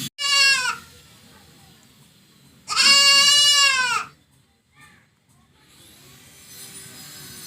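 Goat bleating twice: a short bleat right at the start, then a longer, louder bleat about two and a half seconds later.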